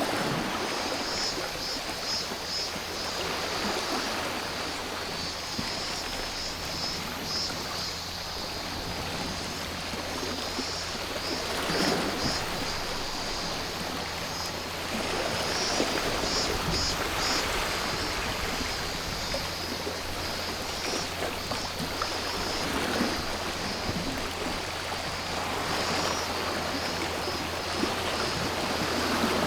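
Sea waves washing onto the shore, swelling and falling every several seconds, with cicadas droning steadily in a high band over them.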